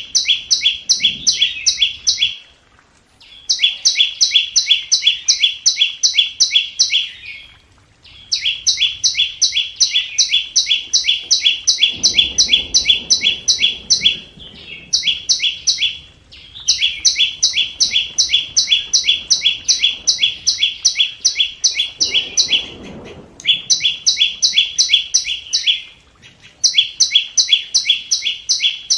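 Flowerpecker calling: runs of rapid, sharp, high-pitched notes, about five a second, each run lasting a few seconds with short pauses between.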